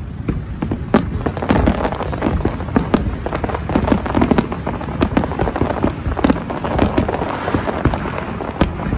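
Fireworks display: a dense run of sharp bangs and crackles over a continuous rumble, growing thicker about a second and a half in.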